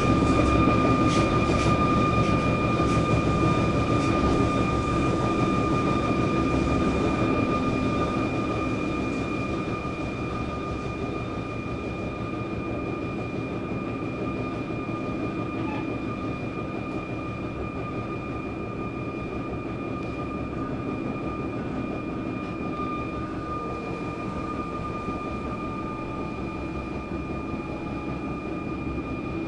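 Electric suburban train running, heard from inside the carriage: a steady rumble with a steady high whine and a few clicks near the start. The noise drops off after about eight seconds as the train eases toward the next station.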